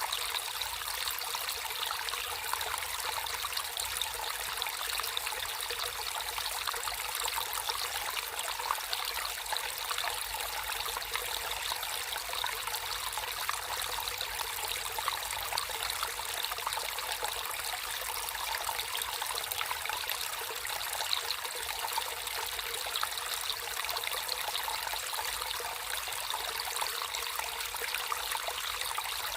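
Natural flowing water trickling and splashing steadily, mostly a bright, fine splashing with little low rumble.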